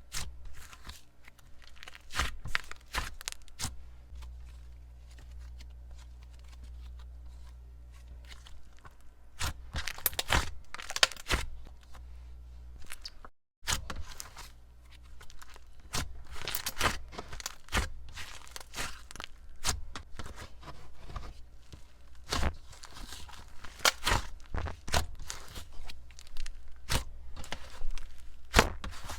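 Slime being stretched, squeezed and poked by hand, making irregular crackles, pops and tearing sounds, with a low steady hum during the first half.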